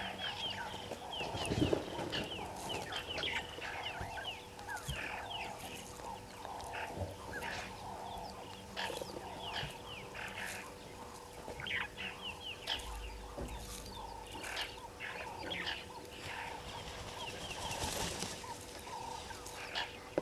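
Outdoor bird calls: many short, high chirps in quick runs, with a faint steady hum under them and a single thump about a second and a half in.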